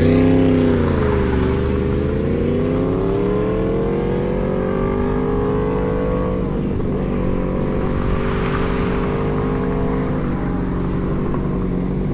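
Motorcycle engine running under way. Its note dips near the start, then climbs steadily for several seconds as it accelerates, and levels off after about six seconds.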